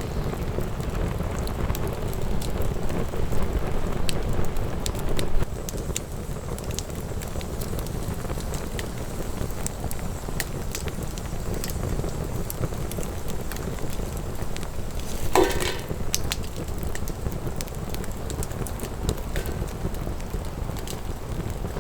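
Wood fire burning, crackling with many scattered sharp pops over a steady low rumble, with one brief louder flare-up about two-thirds of the way through.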